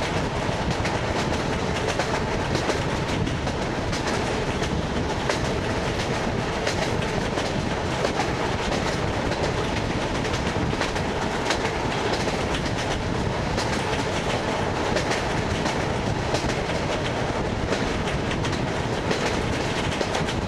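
Wheels of an ED9MK electric multiple unit clattering over the rail joints of jointed track, a repeated clickety-clack over the steady rumble of the running train.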